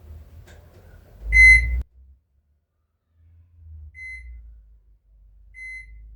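Microwave oven control panel beeping as the cooking time is keyed in: one longer, loud beep, then two short, fainter beeps at the same high pitch.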